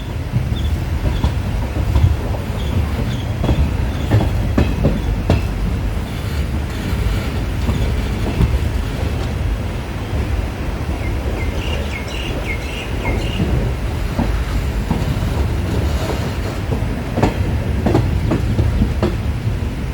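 Passenger train running along the line, a steady low rumble with the clickety-clack of wheels over rail joints. Short high squeals come about halfway through.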